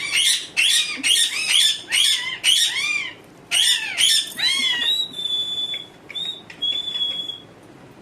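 Pet parrot squawking loudly and repeatedly, about two harsh calls a second, each rising then falling in pitch. About five seconds in, the calls give way to a few thin, level high notes that stop shortly before the end.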